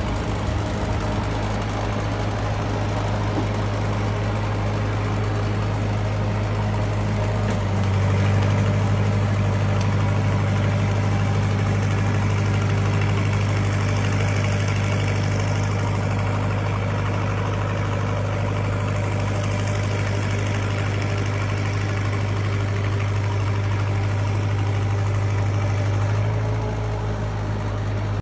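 Lincoln SA-200 pipeline welder's engine running steadily. About eight seconds in it steps up to a higher, louder speed, then drops back shortly before the end.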